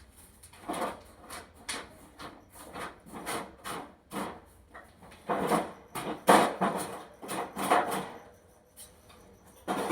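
A run of short, irregular scraping and rubbing strokes, heavier and closer together past the middle.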